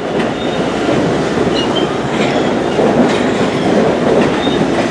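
Long Island Rail Road passenger train rolling past, a steady rumble of wheels on rails with faint rail-joint clicks and a few short, faint high wheel squeals.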